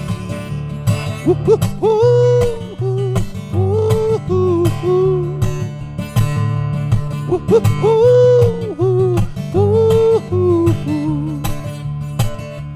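Acoustic guitar strumming chords under a wordless lead melody line, an instrumental break in a live folk song.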